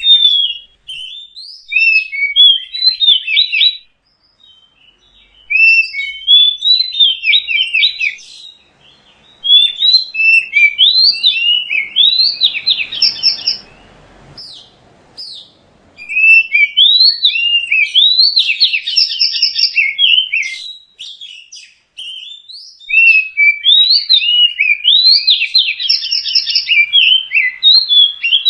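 Oriental magpie-robin (kacer) singing: loud, varied phrases of quick whistled glides and chattering notes, in bursts of several seconds with short pauses between.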